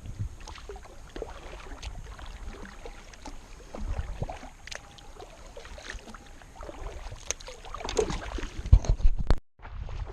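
Kayak on the water: water sloshing against the hull with scattered light knocks and clicks over a low, uneven rumble of wind on the microphone. The knocks get louder about eight seconds in, and the sound cuts out for a moment near the end.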